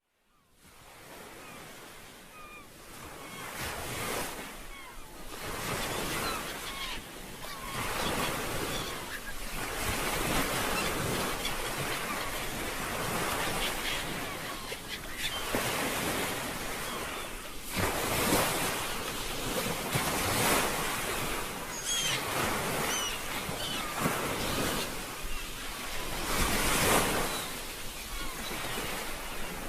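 Sea waves washing onto a shore, fading in over the first few seconds and then swelling and ebbing in slow surges.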